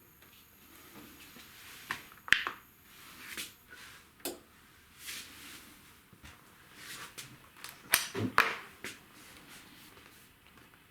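Things being handled: irregular clicks, knocks and short rustles, the sharpest knocks about two seconds in and again around eight seconds.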